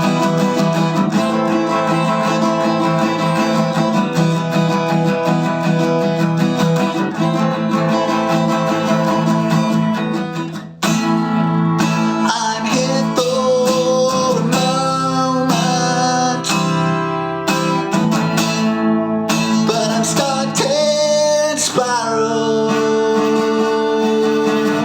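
Music: acoustic guitar strumming chords through an instrumental break of a song. After a brief drop about eleven seconds in, a melody line that slides in pitch plays over the strumming.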